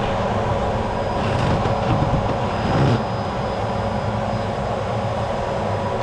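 A vacuum cleaner motor running steadily with a constant whine, plus some clattering of parts being handled in the first three seconds or so.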